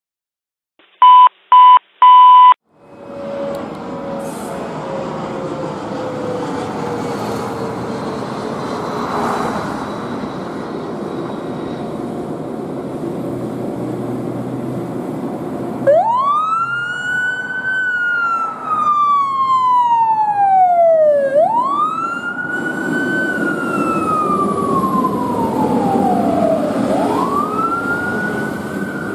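Three short, loud beeps, then a fire truck's engine and traffic noise. From about halfway, the fire truck's siren sounds in a slow wail, rising and falling about every five to six seconds.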